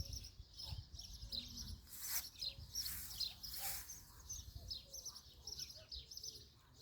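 Small birds chirping: many quick, short high chirps overlapping throughout, with a couple of brief rustles about two and three and a half seconds in.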